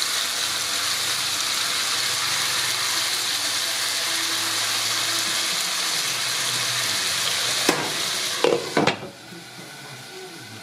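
Chicken breasts sizzling in hot oil in a skillet. About eight seconds in there are a few clatters as metal tongs are set down and a glass lid goes on the pan, and the sizzle turns much quieter and muffled under the lid.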